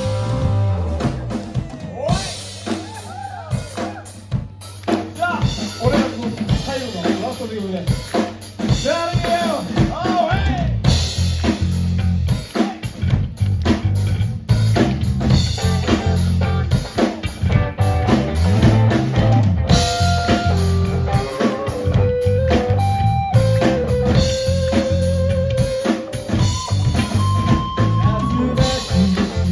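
Live rock band playing: drum kit with bass drum and snare keeping a steady beat under bass, and a lead line of sliding, bending notes with a few held, wavering notes later on.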